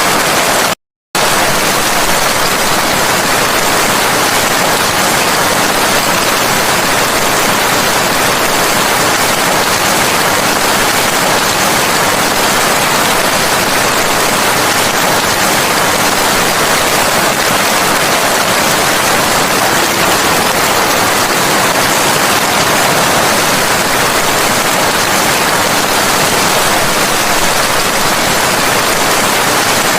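Steady heavy rain as one dense, even hiss with no separate drops standing out. It cuts out completely for a fraction of a second about a second in, then carries on unchanged.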